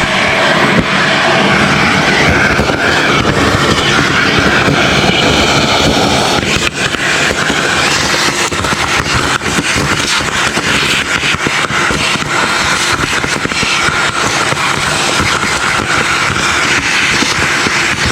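A loud powered cleaning machine running steadily, a dense hiss with fine crackle that dips briefly about seven seconds in.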